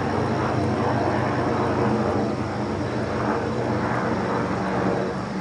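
Helicopter in flight, its rotor and engine making a steady drone with a fast low pulsing.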